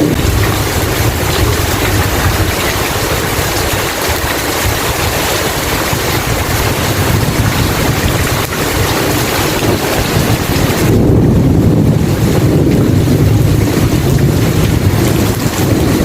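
Steady, loud rain with a low rolling rumble of thunder underneath; about eleven seconds in the rain's hiss thins and the rumble swells for several seconds.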